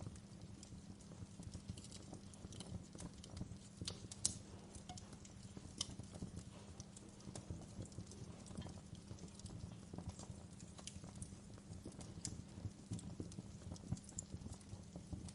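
Wood fire crackling in a fireplace: irregular snaps and pops over a low steady rumble, with one sharper pop about four seconds in.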